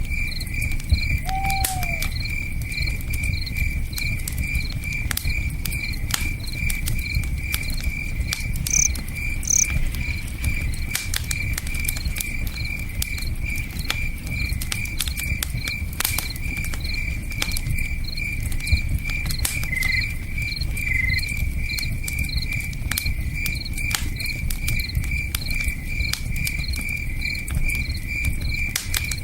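Crickets chirping in a steady rhythm of about three chirps a second, over the irregular crackles and pops of a campfire and a low, steady rush of river water.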